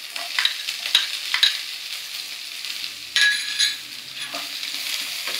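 Sliced onion frying in hot oil in a non-stick kadhai with garlic, ginger and green chillies: a steady sizzle with sharp clicks of the spatula stirring against the pan. The sizzle swells briefly a little past halfway.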